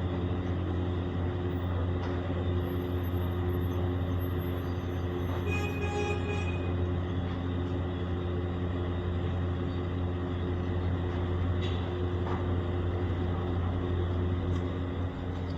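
Steady low mechanical hum with a constant noisy rumble underneath. A brief higher tone sounds over it about six seconds in.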